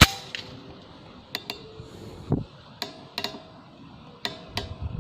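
A single sharp air-rifle shot at the very start, followed by a series of short metallic clicks, mostly in close pairs, and one dull thud midway.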